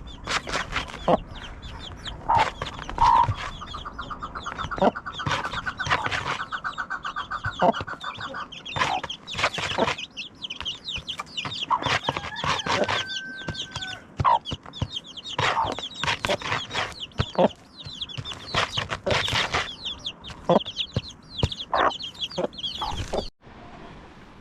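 Chickens clucking: many short, sharp calls, with a fast rattling run of calls from about four seconds in and a brief held peep a few seconds later. The sound cuts off suddenly near the end.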